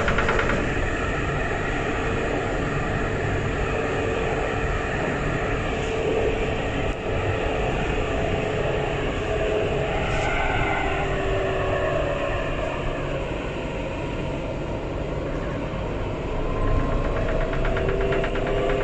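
Alstom Citadis 402 tram running along the line, a steady rolling rumble with the traction motors' whine shifting in pitch and rising near the end as it picks up speed.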